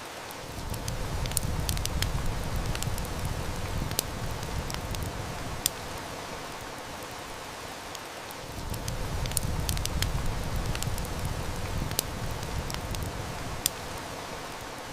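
Heavy rain hissing steadily, with sharp crackles and snaps from a wood fire scattered throughout. Twice a low rumble swells in and holds for about five seconds, once just after the start and again past the middle.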